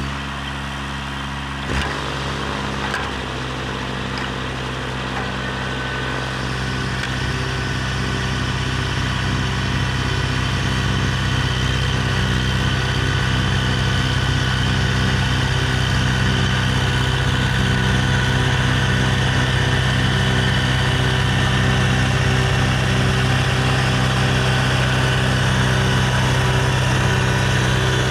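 Diesel tractor engine running steadily at working revs, driving a tractor-mounted snowblower through deep snow, growing somewhat louder over the first several seconds and then holding steady.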